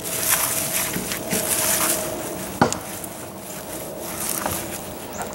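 Rustling and scraping through loose soil and sweet potato vines while digging tubers out of a container, with one sharp knock about two and a half seconds in and a few lighter clicks.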